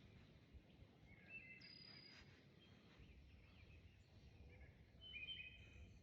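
Faint outdoor ambience with wild birds calling in the distance: a few short, high, clear notes about a second in and again near the end.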